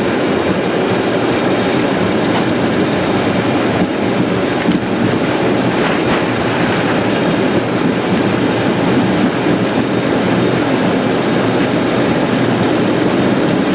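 Boeing 737-200's Pratt & Whitney JT8D turbofans running at takeoff thrust, heard from the cockpit together with the rumble of the accelerating takeoff roll; a loud, steady noise throughout.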